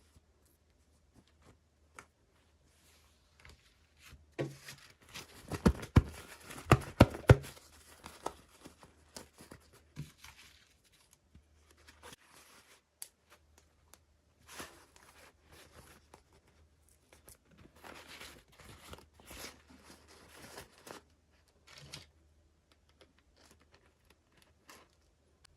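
Toy packaging being torn open and crinkled by hand, with sharp clicks, loudest about five to seven seconds in, then softer bursts of crinkling.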